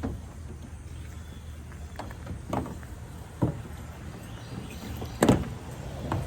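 Steady low hum of running equipment, with three separate clunks of gear being handled, the loudest about five seconds in.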